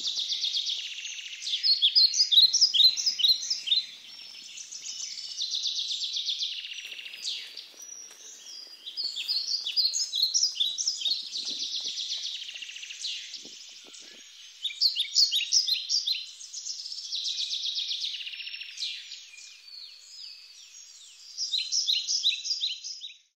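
Wild songbirds singing in a steady chorus of chirps and trills, with a louder phrase of quick, sharp descending notes repeated every few seconds.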